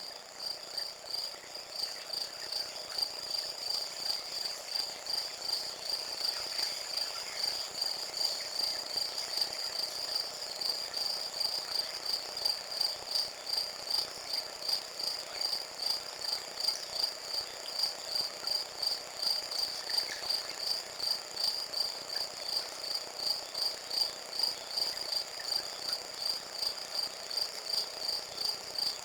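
Insects chirping steadily in an even rhythm, about two to three high chirps a second.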